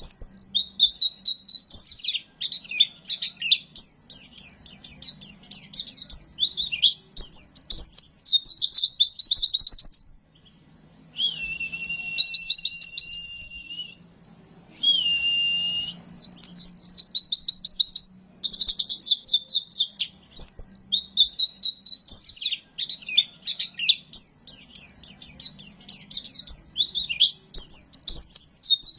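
White-eye (pleci) song: fast, high-pitched chattering and trilled phrases repeated in quick bursts. About ten seconds in the chatter breaks and two held, steady whistled notes sound before the rapid phrases resume.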